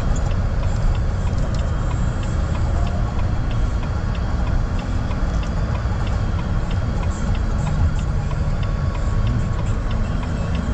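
Car running down the road, heard from inside the cabin as a steady low rumble of engine and road noise, with the turn-signal or hazard flasher ticking about two to three times a second.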